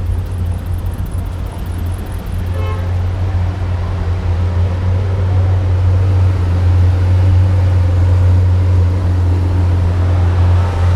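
A convoy of cars driving past with a steady low engine rumble that grows gradually louder.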